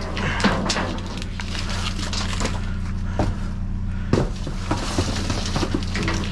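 Scrap and trash clattering and rustling as wire and junk are rummaged through in a dumpster. There are sharp knocks about half a second in, just after three seconds, and just after four seconds, over a steady low hum.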